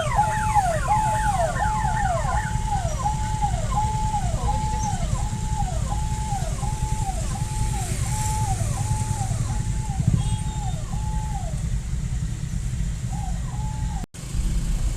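An electronic siren wailing in a fast rise-hold-fall cycle about every 0.7 s, over a steady low rumble of traffic. It stops about 11 s in and sounds twice more briefly near the end.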